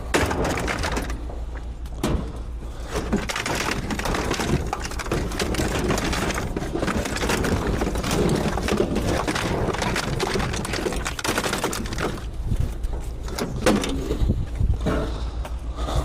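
Knocks, scrapes and clatter of scrap items being shifted and rearranged, over a steady low rumble.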